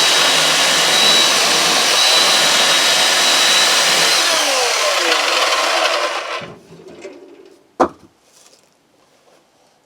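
Electric chainsaw cutting small firewood, its motor whine dropping in pitch near the end of the cut before it stops about six seconds in. A single sharp knock follows.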